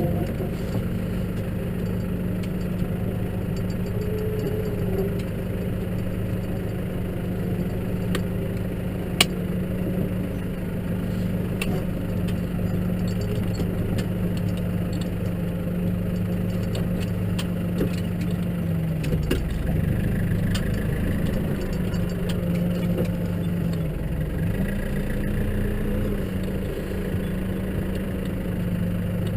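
Case tractor engine running steadily while ploughing snow, its note dipping about two-thirds of the way through and picking up again shortly after. A single sharp click about nine seconds in.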